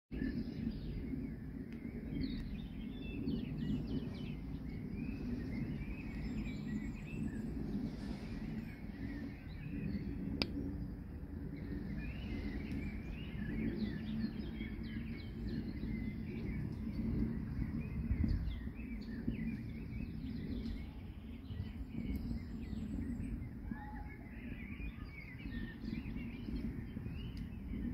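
Outdoor ambience: birds chirping on and off over a steady low rumble.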